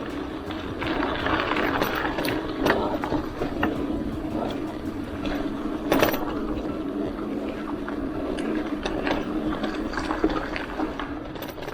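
Hardtail mountain bike rolling along a dirt trail, its rear hub freewheel buzzing as it coasts. Small rattles and ticks come in over the bumps, with one sharp knock about six seconds in.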